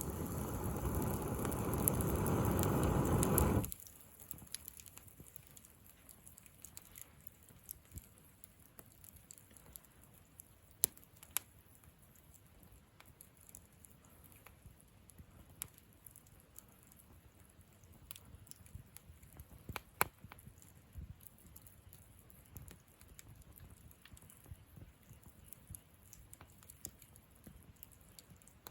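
Wood campfire crackling, with scattered sharp pops and snaps over a faint background. For about the first four seconds a louder rushing noise lies over it, then cuts off suddenly.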